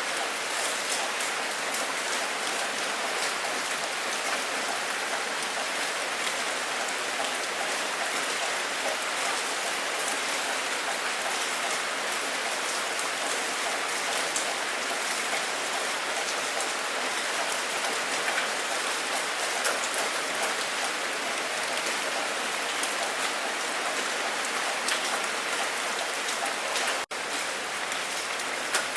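Steady heavy rain: a dense, even hiss of many drops pattering on a surface, with a split-second gap near the end.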